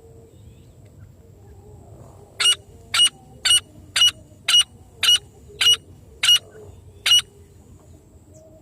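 Francolin calling: a series of eight loud, harsh, grating notes at about two a second. They start a couple of seconds in and stop about a second before the end.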